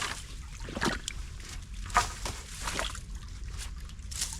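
Sticks and rocks being pulled by hand from a beaver dam: irregular knocks and sloshing over trickling creek water, with the loudest knock about two seconds in.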